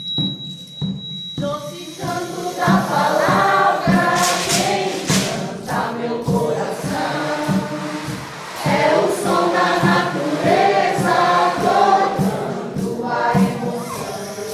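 A group of voices singing in chorus, without clear words, over music with a steady beat.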